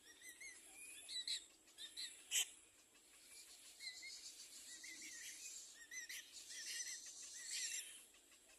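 Baby birds in the nest begging for food: groups of short, quickly repeated high chirps that come and go. A single sharp click sounds about two and a half seconds in.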